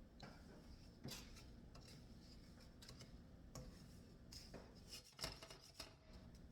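Faint kitchen food-prep handling sounds: a few light clicks and short scrapes of utensils on a work surface, the busiest cluster a little past the middle.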